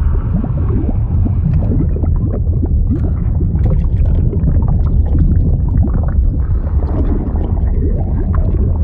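Fluid sound effect: a deep, steady rumble with dense bubbling and gurgling over it, many short rising blips.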